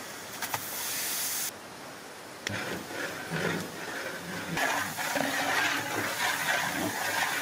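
Hot oil sizzling in a large metal cooking pot as ginger-garlic paste drops in, a high hiss that cuts off suddenly about a second and a half in. Then a long metal paddle stirs the frying vegetables, the sizzle growing louder with scrapes and knocks against the pot.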